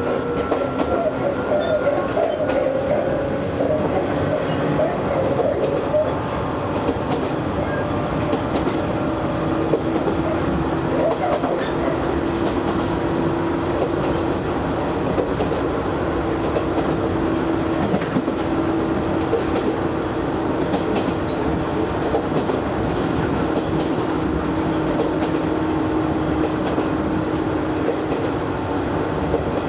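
Izu Hakone Railway Series 3000 resistance-controlled electric train running at speed, heard from inside the car: steady running noise with wheels clacking over rail joints. A steady whine sits over it, higher in pitch at first and lower from about ten seconds in, typical of the traction motors and gears.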